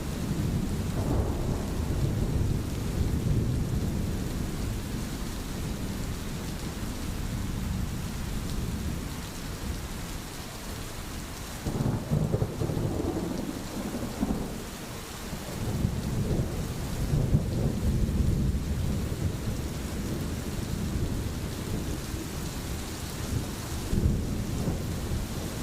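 Steady rain with deep rolling thunder rumbles that swell and fade several times.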